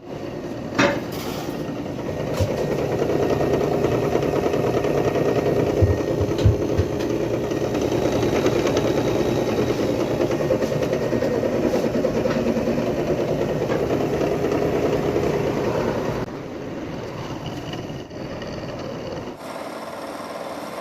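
Window air conditioner running with its faulty fan motor, making a steady mechanical running noise with a few sharp knocks. This is the motor noise the repair is meant to cure. The noise drops for the last few seconds.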